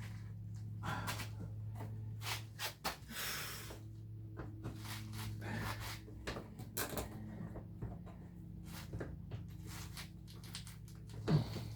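Hand work on car parts: scattered clicks, clinks and knocks of tools and metal fittings being handled, with a brief rustle about three seconds in, over a steady low hum.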